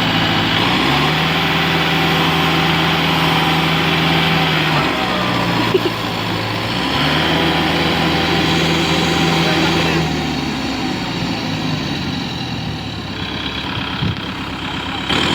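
Kubota MU5502 tractor's four-cylinder diesel engine revving up and dropping back twice, then running at a lower speed for the last few seconds, as the tractor works stuck in mud.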